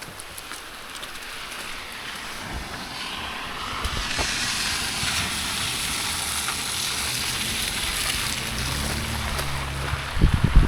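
A vehicle going past on a wet road: its tyres hiss, swelling over a few seconds, with a low engine hum under it near the end. A few loud low thumps follow just before the end.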